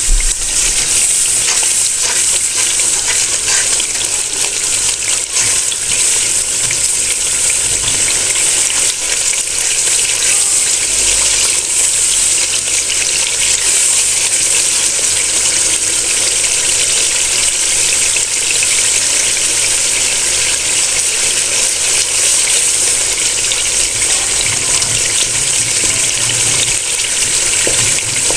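Onion, tomato and ground-spice masala sizzling and crackling steadily in hot oil while a wooden spatula stirs it round the pan. This is the bhuna stage, with a drop of water added so the spices fry without burning.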